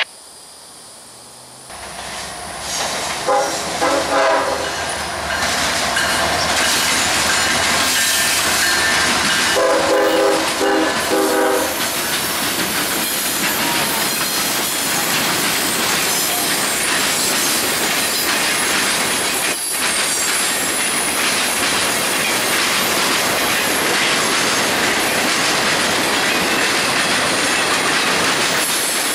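Freight train approaching behind diesel locomotives: the horn sounds twice, a fainter blast a few seconds in and a louder one about ten seconds in, over a building rumble. Then the locomotive passes and a long string of boxcars and tank cars rolls by with a steady roar and clickety-clack of wheels over rail joints.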